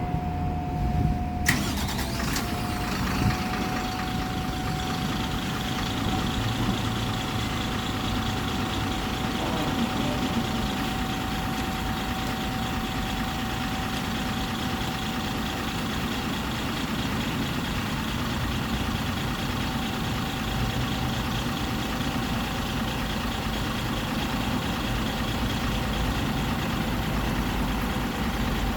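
Mitsubishi Fuso Aerostar bus's diesel engine cranked and started about a second and a half in, then idling steadily.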